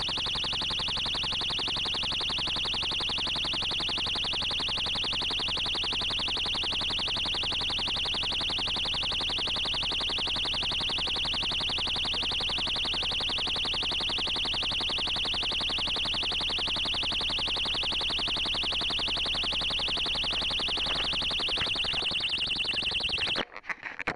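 Model rocket's electronic locator beacon sounding a continuous, high-pitched buzz that cuts off suddenly near the end.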